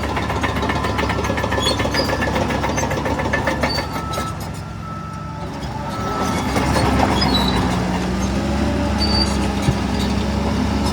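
Heavy diesel engine of earth-moving machinery running under load, with metallic clatter for the first few seconds. It eases off around four seconds in, then revs back up from about six seconds. A single sharp knock comes near the end.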